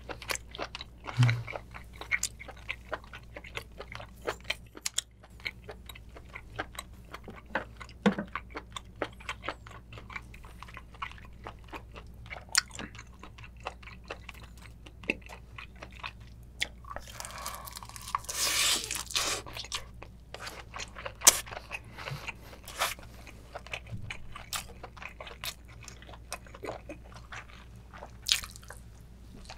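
Close-miked mouth sounds of eating spicy braised chicken with octopus and kimchi: steady chewing and biting, with a run of wet smacks and crunchy clicks, and one longer breathy noise about two-thirds of the way through.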